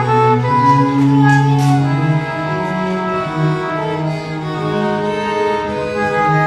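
Baroque chamber music played live on bowed strings: a melody line moving over held notes in the bass.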